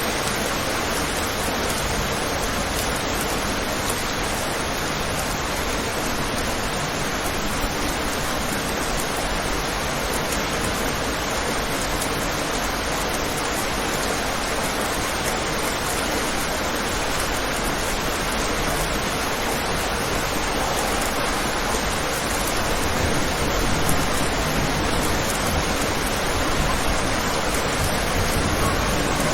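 Steady heavy rain falling on a window, a dense, even hiss with no separate drops or thunder standing out.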